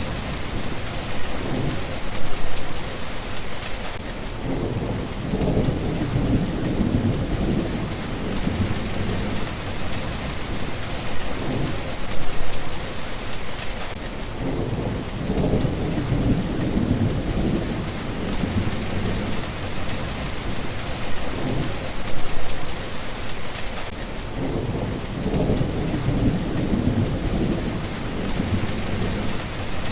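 Steady rain falling, with low rolls of thunder about every ten seconds, three times.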